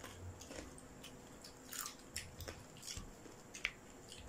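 Close-up eating sounds of crispy pata (deep-fried pork leg) eaten by hand: faint chewing and biting with scattered short, crisp crackles.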